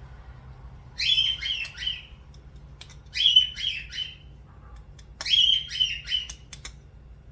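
A bird chirps loudly in a short phrase of four or five quick notes, repeated four times about every two seconds. A few light clicks fall between the phrases.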